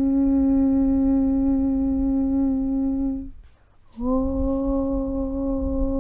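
Chanted 'Aum' (Om) held as one long steady hum over a low rumble. It fades out a little after three seconds in, and after a short pause a new 'Aum' begins, sliding briefly up into the same pitch.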